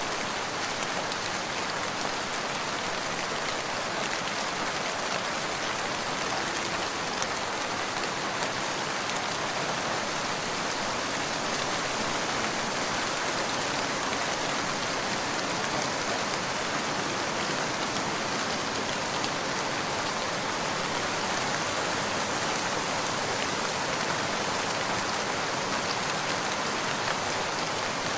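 Steady rain falling on a surface, an even hiss of many drops with no thunder or other events.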